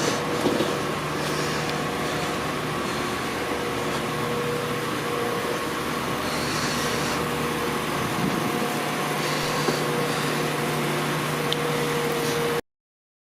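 Steady hum inside a Class 4000 diesel multiple unit, its underfloor diesel engine running with a few held tones over a rumble. It cuts off suddenly near the end.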